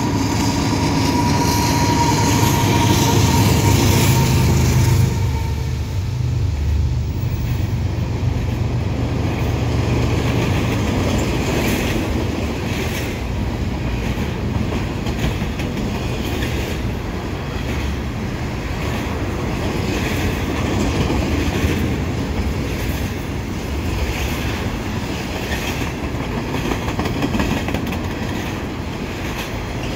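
Two GE diesel locomotives of a Canadian Pacific double-stack container train pass close by, their engines running loud with a steady whine for about the first five seconds. Then come the steady rolling noise and repeated wheel clicks of the double-stack container well cars going past.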